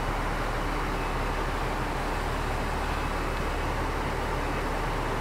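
Diesel railcar engines idling steadily at a standstill, a low hum under an even hiss.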